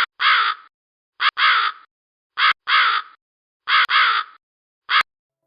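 A crow cawing over and over in pairs, a short caw followed by a longer one, about one pair a second, ending on a single short caw.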